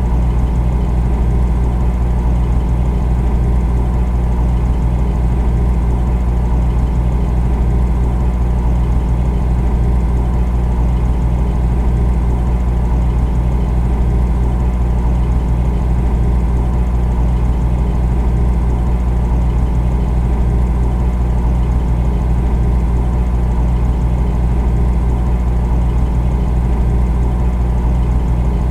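Refrigerator running with a steady low hum that never changes.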